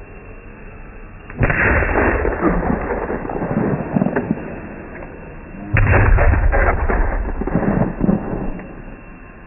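Fireworks going off: two loud bangs, the first about a second and a half in and the second about four seconds later, each followed by a few seconds of crackling and rumble.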